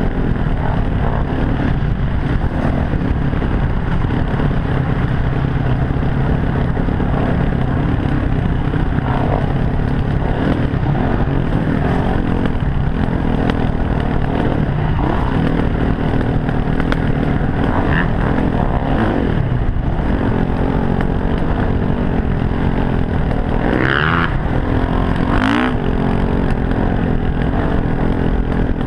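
Dirt bike engine running continuously on a trail ride, its revs rising and falling as the rider works the throttle, with a couple of sharper revs near the end.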